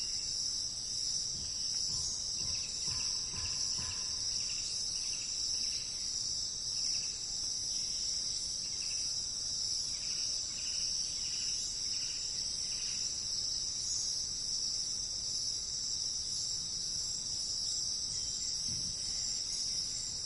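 Steady, high-pitched insect chorus, crickets or similar, running without a break. For about ten seconds in the first half, a run of short, lower chirps repeats about twice a second over it.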